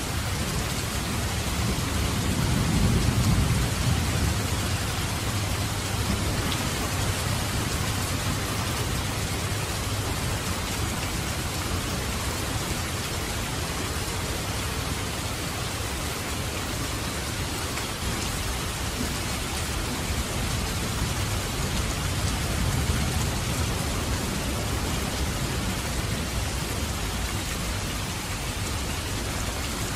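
Steady rain falling, a constant even hiss, with a low rumble swelling about three seconds in and again faintly past the twenty-second mark.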